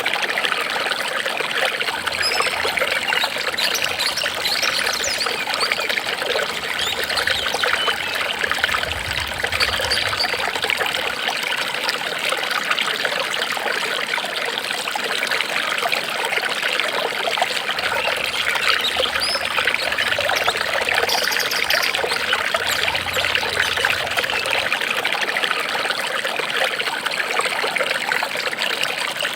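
Running water trickling steadily, an even splashing hiss with no pauses.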